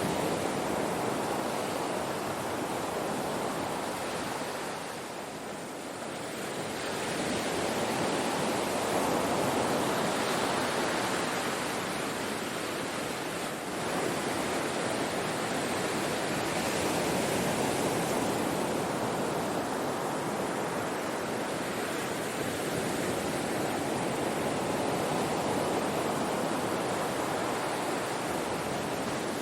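Ocean surf washing onto a shore: a continuous rushing wash that swells and ebbs slowly, with a lull about five seconds in before the next wave builds.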